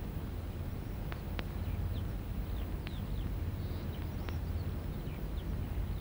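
Birds giving short, scattered high chirps over a steady low hum.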